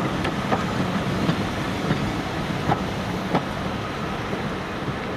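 Diesel-hauled train running past, its wheels clicking over rail joints at a regular beat over a steady engine hum; the clicks stop after about three and a half seconds.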